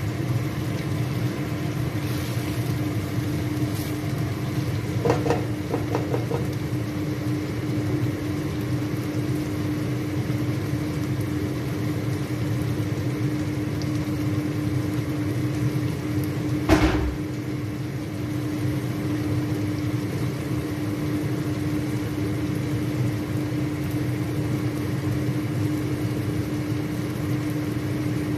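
Chicken pieces cooking in a wok on a gas stove, a low sizzle under a steady machine hum. A few light knocks come about five seconds in, and a single louder knock about seventeen seconds in.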